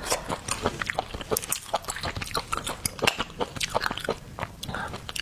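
Close-miked eating: a dense, irregular run of wet clicks and crackles as shellfish is pulled apart and chewed.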